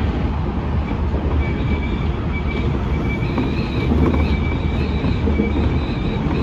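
Semboku Rapid Railway 5000 series electric train running, heard from inside the front cab: a steady rumble of wheels on rail with a thin high squeal that comes and goes.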